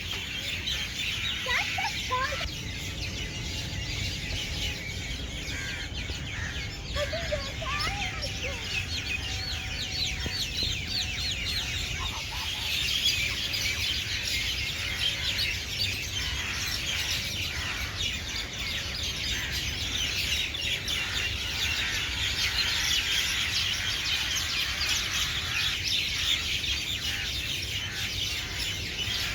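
Many small birds chirping together in a dense, continuous chorus of short high calls, growing busier from about halfway.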